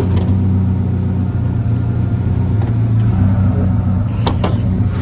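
Ford Ranger pickup's engine idling steadily with the cooling fan running while the engine runs hot. The owner suspects a failed water pump. There is a brief scuffing noise about four seconds in.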